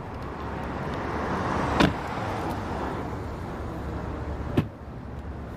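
A car running, its engine and road noise swelling slightly then holding steady, with two sharp clicks, one about two seconds in and one near the end.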